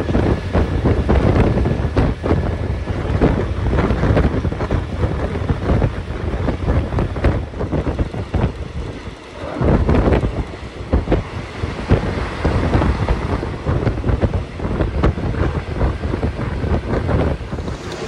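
Passenger train running, with wind buffeting the microphone over a steady rumble and the clatter of the wheels, which eases briefly about halfway through.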